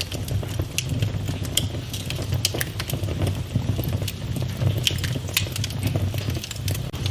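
Fireplace fire crackling, with frequent sharp pops scattered over a steady low rumble.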